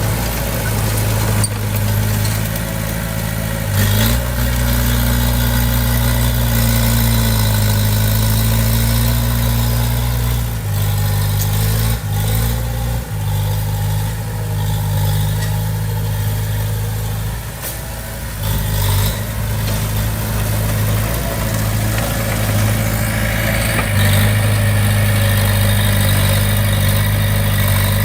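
Komatsu D20P crawler bulldozer's diesel engine running steadily, its note shifting and its load rising and easing several times as it works.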